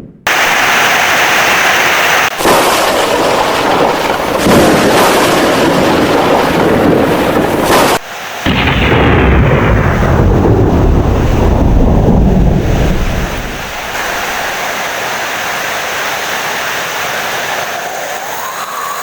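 Heavy rain with thunder: a long, loud rumble starts about eight seconds in and dies away over several seconds, leaving steady rain. The sound jumps abruptly a few times, as if spliced.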